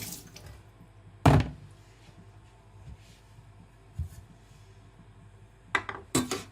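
A few knocks of hard objects being handled and set down: one loud knock about a second in, a lighter one later, and a quick cluster of three near the end.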